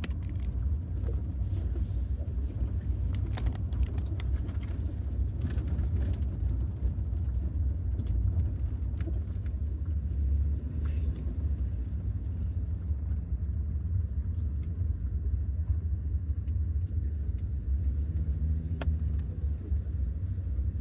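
Ford E250 van driving: a steady low rumble of engine and road noise, with a few faint clicks.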